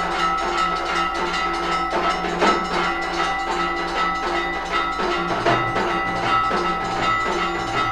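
Live Hindu temple aarti music: irregular drum and metallic strokes over steady held ringing tones.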